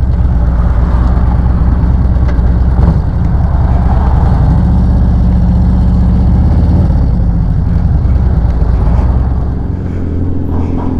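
Motorcycle engine running under way, with wind noise over the rider's microphone. Its pitch rises about four seconds in and eases back a few seconds later, and the sound drops off near the end as the bike slows.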